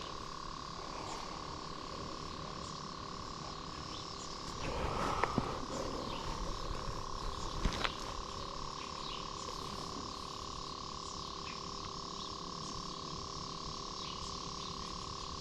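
Night-time chorus of calling animals outdoors: a steady high drone with short, high chirps repeating every second or so. A brief rustling clatter comes about five seconds in, and a single sharp click a little later.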